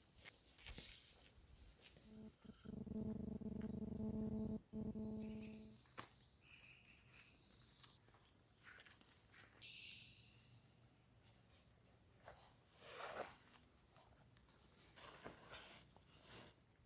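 Insects chirping steadily in a high-pitched continuous trill. About two seconds in, a steady low hum joins for roughly four seconds, then stops. A few faint rustles and clicks follow.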